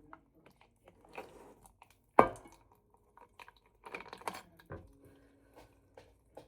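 Close-up handling noises: scattered light clicks and rustles, with one sharp knock about two seconds in.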